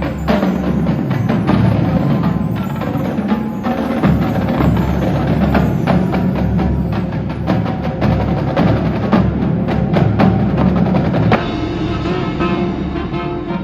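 Marching band playing a percussion-heavy passage: drums and sharp clicking percussion over low held notes. About eleven seconds in, the drumming thins and sustained pitched notes come to the fore.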